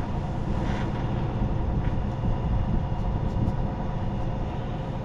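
An engine running steadily: a constant low rumble with a faint steady hum over it, and a couple of faint light clicks.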